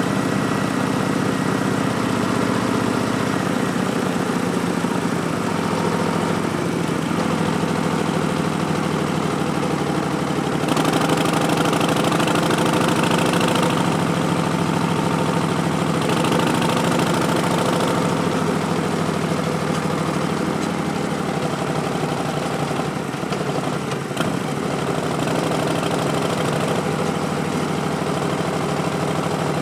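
2019 Harley-Davidson Street Bob's Milwaukee-Eight 107 V-twin running through Vance & Hines Twin Slash slip-on mufflers, a stage 1 setup with an Arlen Ness Big Sucker intake. The engine note shifts pitch a few times, with added hiss for a few seconds near the middle and a single click late on.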